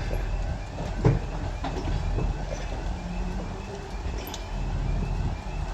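TGK2 shunting diesel locomotive running with its engine going, wheels knocking and clicking over the rails, with one sharp knock about a second in.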